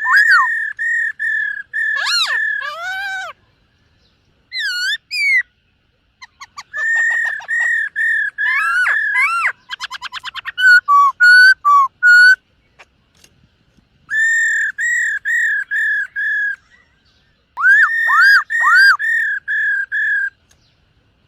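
Black-throated laughingthrush singing: phrases of loud, repeated whistled notes that each slur up and down, with a fast rattling trill about halfway through, separated by short pauses.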